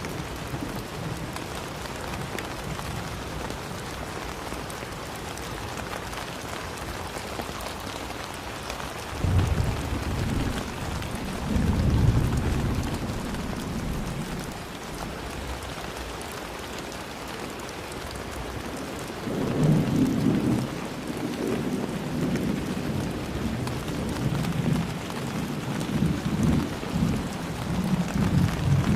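Steady rain falling, with low rolling rumbles of thunder swelling up about a third of the way in and again through the last third.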